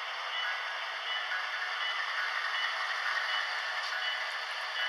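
HO scale model trains running on the layout: a steady, even hiss with faint high tones and no low rumble.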